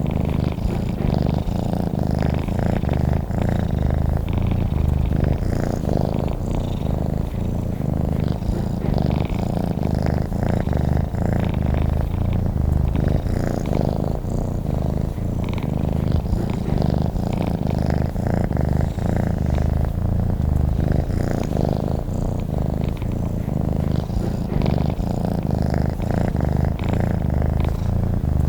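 Domestic cat purring, a steady low rumble that carries on without a break.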